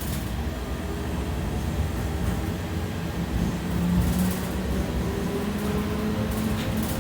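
Belkommunmash BKM 60102 tram running between stops, heard from inside the car: a steady rumble of the wheels on the rails, with a motor whine that rises in pitch from about halfway through.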